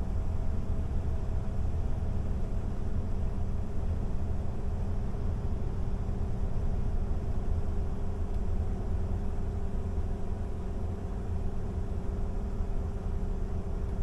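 Steady low road and engine rumble of a vehicle driving, heard from inside the cab.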